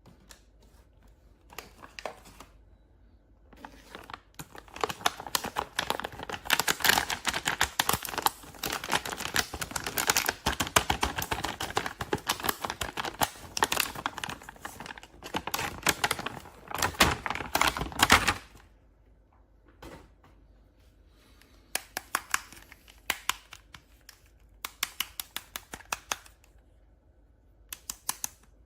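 Toy packaging being opened and handled: dense crinkling and clicking of plastic and card for about thirteen seconds, then scattered clicks and rustles with short pauses.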